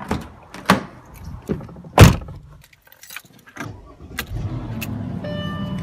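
Handling clicks, then a car door shutting with one loud thump about two seconds in. A car engine then starts and runs steadily, and music from the car stereo comes in near the end.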